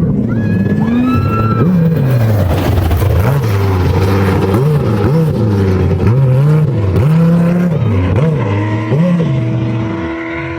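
Off-road racing vehicle's engine, loud, revving up and falling back over and over, the pitch climbing and dropping about once a second as the throttle is worked. A second, steadier engine tone comes in near the end.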